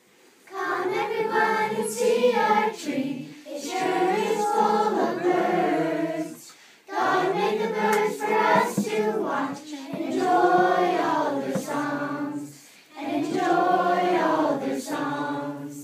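A group of children singing a song together, in long phrases with short breaks about six and thirteen seconds in.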